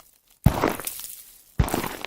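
Footsteps crunching in snow: two steps, about half a second and a second and a half in, each a sharp crunch that fades off.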